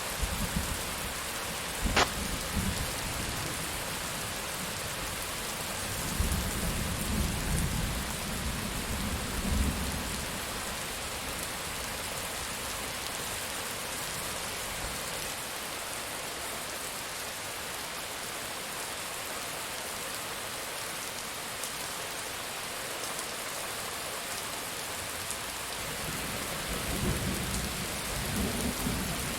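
Steady rain falling, with thunder: a sharp crack about two seconds in, then low rolling rumbles a few seconds later and again near the end.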